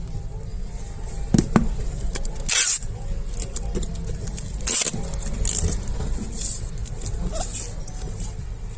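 Short rustling, hissing bursts of plastic packaging being handled, the loudest two about two and a half and about five seconds in, with a couple of sharp clicks before them, over a steady low rumble of road traffic.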